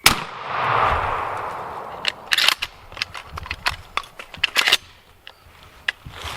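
A single shotgun blast, its report rolling away for about two seconds, followed by a run of sharp crackles and rustles.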